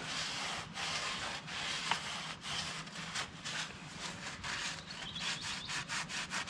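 Rubbing and scraping from hands working on the backhoe's hydraulic hoses and fittings: a quick, irregular run of short strokes.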